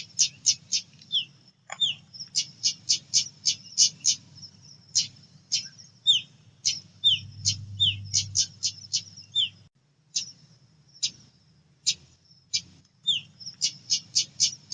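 Female pied bushchat calling in quick series of short, sharp, high chips, mixed with a few brief down-slurred notes. The calls thin out to single chips about two-thirds through, then come fast again near the end, over a low background hum.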